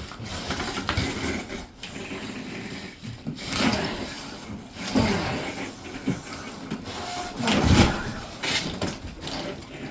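Handling and shifting cardboard and parts of a cat tree: irregular rustling and scraping with a few dull knocks, the loudest about three-quarters of the way through.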